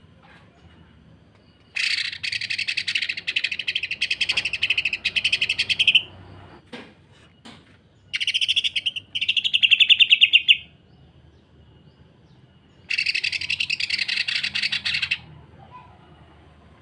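Green leafbird (cucak ijo) giving harsh, very rapid rattling runs of notes, the close-set 'sewing machine' kind, in three bursts of two to four seconds each.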